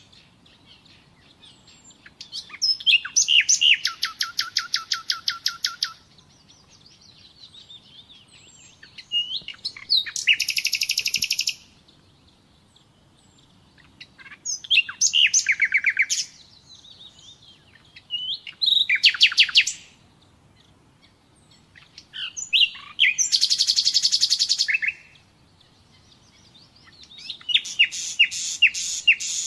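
Common nightingale singing: six separate song phrases, each a second or three long and many made of fast repeated notes, with short pauses between them.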